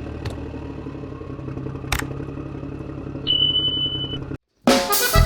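A boat engine running steadily at low speed, with a couple of sharp clicks and a brief high beep. The sound cuts off abruptly near the end and accordion music starts.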